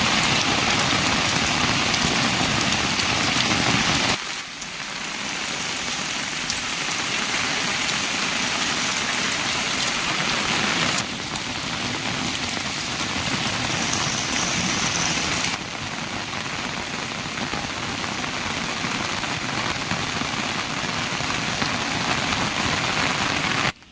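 Heavy rain pouring in a steady hiss, dropping suddenly in loudness about four seconds in and shifting again twice further on.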